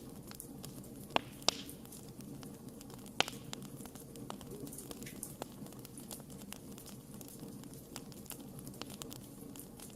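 Wood fire burning with a steady low rumble and frequent small crackles, with sharp pops about a second in, again half a second later, and once more a little after three seconds.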